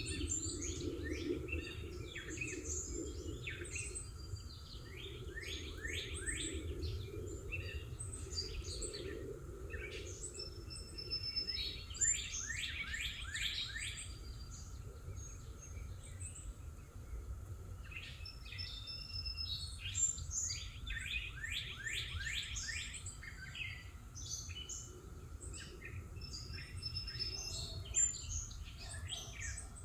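Songbirds chirping and singing, with several quick runs of repeated sweeping notes, over a steady low background rumble.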